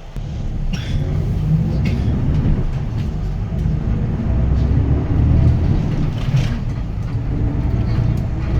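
Hyundai Green City city bus's D6GB diesel engine, heard from inside the front of the cabin. The engine noise rises sharply right at the start as the bus pulls away and then runs loud under load, with occasional cabin rattles and clicks.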